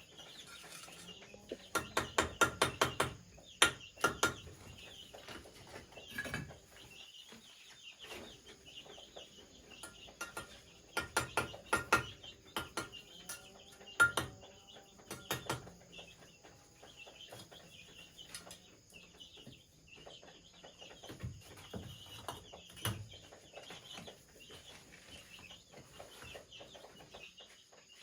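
Bursts of fast, sharp knocks, each run several strikes a fraction of a second apart, loudest in a run about two seconds in and again about eleven seconds in. Under them, chickens cluck and small birds chirp throughout.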